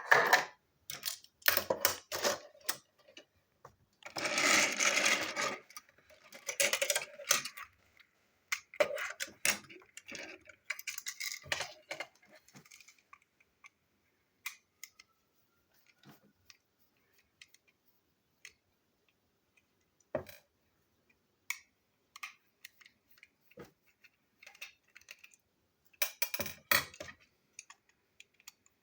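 Plastic toy train parts being handled by hand: scattered clicks and light knocks, with a longer rattle about four seconds in and a brief cluster of knocks near the end.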